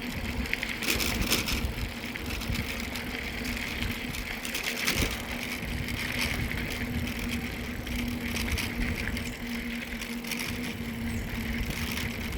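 Mountain bike rolling along a trail: steady rumble of the tyres and wind on a hand-held phone's microphone, with a faint steady hum and a few short rattles.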